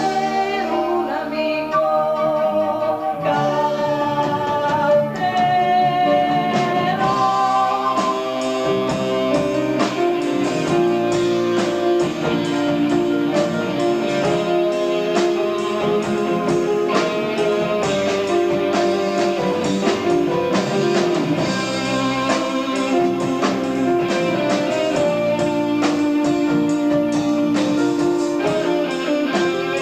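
Progressive rock band playing live, heard on an amateur tape recording: electric guitar and keyboards under a held, gliding melodic lead line, with drums coming in about eight seconds in.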